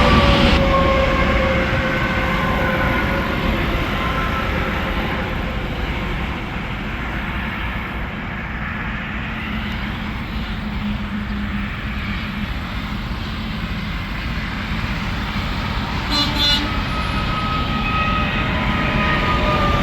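Interstate traffic passing: heavy trucks and cars going by, with a steady rush of tyre noise. A tyre whine drops in pitch as a vehicle passes near the start, and another whine comes in near the end.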